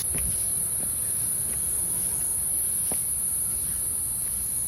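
Insects shrilling in a steady, unbroken high-pitched drone.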